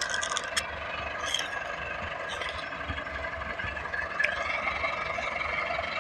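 Tractor engine running steadily, with a couple of short sharp clicks.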